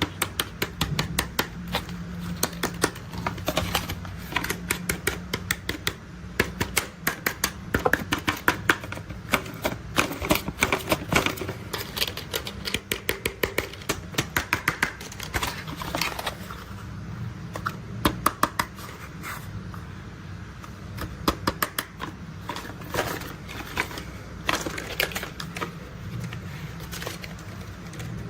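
Rapid tapping and clicking on toy construction vehicles, coming in quick runs of several clicks a second, over a steady low rumble.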